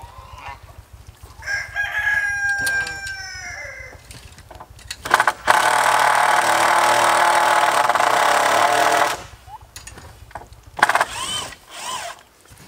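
A rooster crowing, its call falling in pitch at the end, with chickens calling briefly near the end. A louder steady noise runs for about four seconds in the middle.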